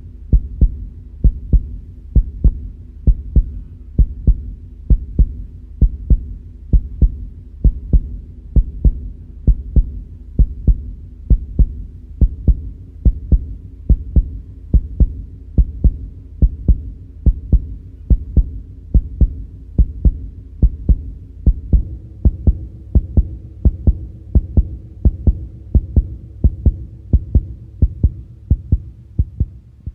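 Heartbeat sound effect: a steady double thump, lub-dub, about once a second, over a low sustained drone that gains a higher note partway through.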